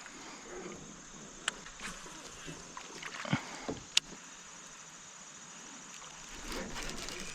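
Quiet river background with a few light knocks and sharp clicks from fishing tackle and the kayak being handled, the sharpest about a second and a half in and again about four seconds in.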